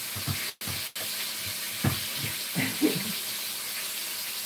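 Steady sizzling hiss of chicken back frying in oil, with a few soft knocks. The sound cuts out twice for an instant about half a second in.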